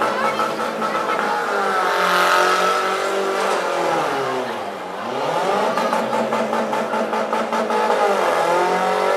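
Demolition derby cars' six- and four-cylinder engines revving, several at once. The engine pitch sinks about halfway through and climbs again, then dips and rises once more near the end.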